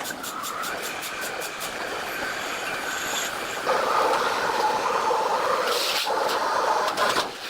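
Sawmill machinery running: a steady mechanical grinding with a pitched whine that grows louder about three and a half seconds in.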